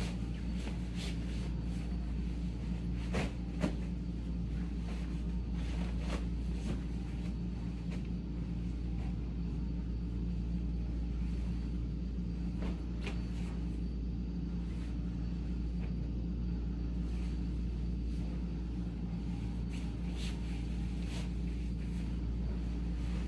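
Vacuum cleaner running steadily in the background: a low hum with a faint high whine. Short rustles and knocks from a bed being stripped and made come and go over it, the sharpest two close together a few seconds in.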